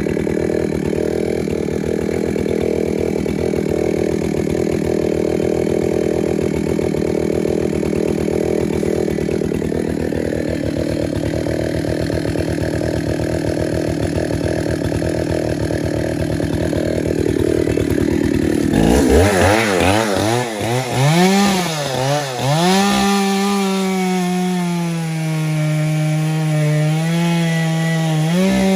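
Chainsaw cutting into a tree. An engine drones steadily at first, then about two-thirds of the way in a chainsaw revs close up, its pitch dipping and rising under load before holding fairly steady.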